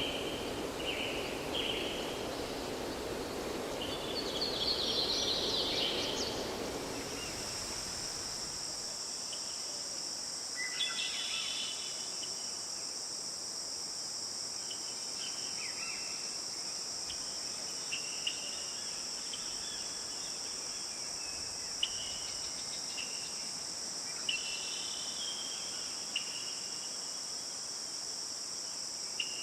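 Forest stream running water with bird chirps. About seven seconds in, the sound switches abruptly to a steady high-pitched insect drone, with scattered bird chirps over it.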